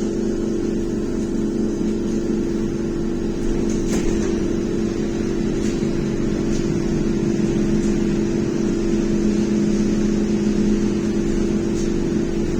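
Belkommunmash BKM-321 trolleybus running heard from inside the cabin: a steady two-note hum from the electric drive over road noise, with a few light rattles.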